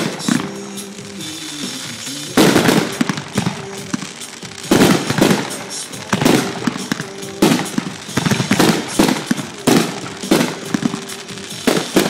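Aerial firework shells bursting in a rapid series of loud bangs, about one a second and some in quick pairs, as in a finale barrage.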